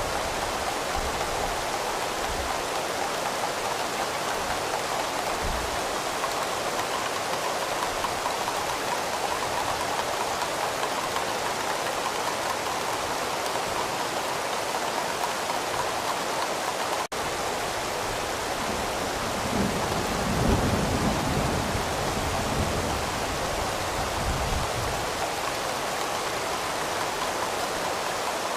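Steady rain falling, with a low rumble of distant thunder rolling in about two-thirds of the way through. There is a split-second gap in the sound a little past the middle.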